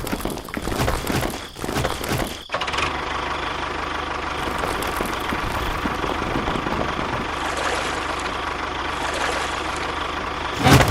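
A motor running steadily with a constant whine, starting after an abrupt cut about two and a half seconds in, with a louder burst right at the end. Before the cut the sound is choppy and broken up.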